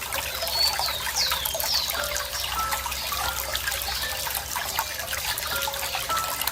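Water trickling and splashing steadily, like a small stream. Three or four high, quickly falling bird chirps come between about half a second and two seconds in.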